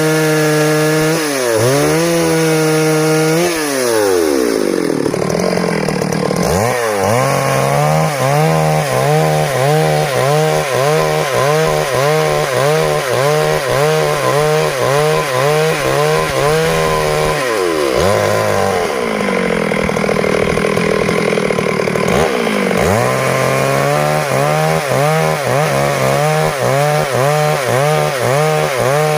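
Stihl MS 382 two-stroke chainsaw cutting wood at high revs, its engine note wavering evenly about one and a half times a second as it works through the cut. Three times, a few seconds in and twice past the middle, the revs drop briefly before it is throttled back up.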